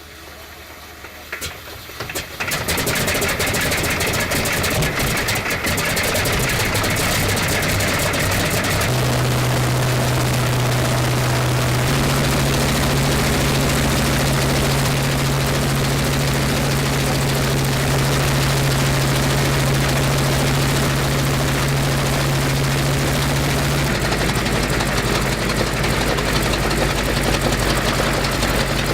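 A Westland Lysander's nine-cylinder radial engine catches about two and a half seconds in after a few clicks, then runs steadily. Its speed steps up twice, about 9 and 12 seconds in, and is throttled back near the end.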